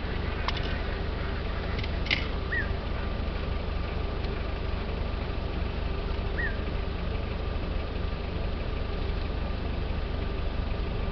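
Steady low rumble from the idling vehicle, with a bird giving a short chirp twice, a few seconds apart, and a couple of sharp clicks near the start.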